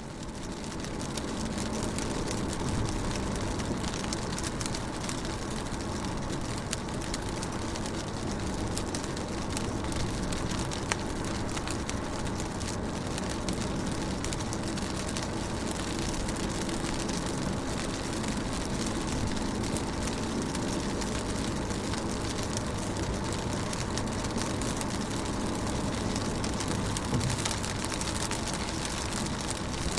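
Rain falling on a car window: a steady hiss of water with many small drop ticks and a low rumble underneath, fading in over the first second or so.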